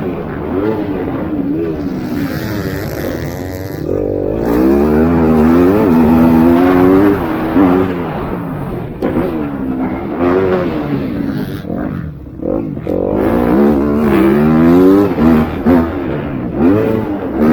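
Motocross bikes racing: several dirt-bike engines revving up and down over and over, overlapping one another, with a brief lull about twelve seconds in.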